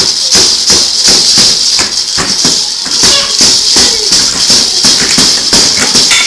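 Loud rhythmic rattling, like a rattle or shaker being shaken about three times a second, with a voice heard briefly in the middle.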